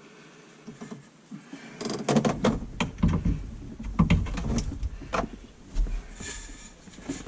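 Handling noise from plumbing work: a series of knocks, clicks and low thuds, starting about two seconds in, as parts for the dishwasher drain hookup to a garbage disposal are handled and fitted.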